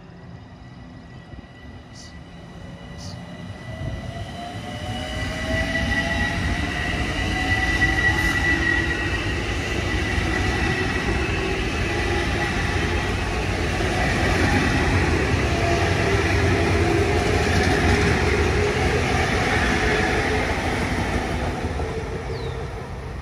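A Long Island Rail Road train passing on the Ronkonkoma Branch. A high steady tone is heard as it nears, then a rising whine as the noise builds over a few seconds. It stays loud for about fifteen seconds and begins to fade near the end.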